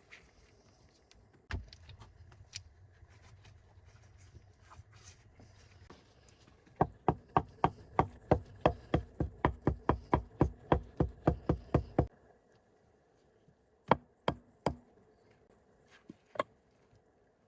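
A fast, even run of sharp knocks, about five a second for some five seconds, followed by three or four separate single knocks.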